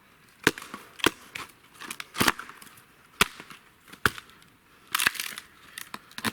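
Dry wood cracking and snapping in about a dozen irregular sharp cracks, some much louder than others, as when twigs and sticks are broken up for a small fire.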